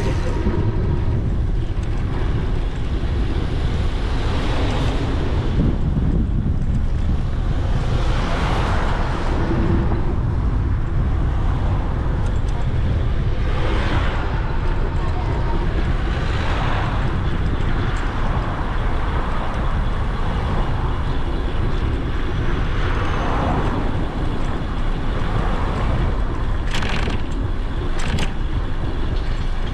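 Road traffic passing a moving e-bike, several vehicles swelling up and fading one after another over a constant low rumble of wind on the GoPro's microphone. Two short sharp clicks come near the end.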